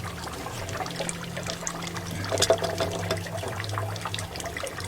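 Water running and trickling as a tank water heater is flushed out with a garden hose, with water dribbling from a small leak at a fitting. A low steady hum runs underneath, and there is a brief louder splash about halfway through.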